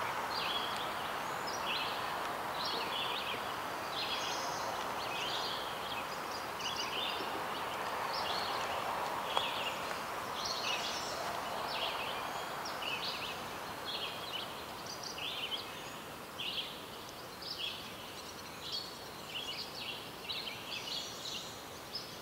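Small birds chirping over and over, short high chirps about once or twice a second, over a steady background hiss that thins out in the second half.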